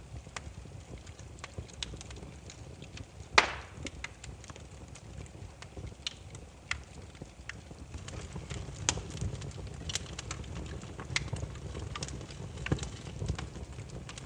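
Burning firewood crackling, with scattered sharp pops and one loud pop about three seconds in, over a low steady rumble.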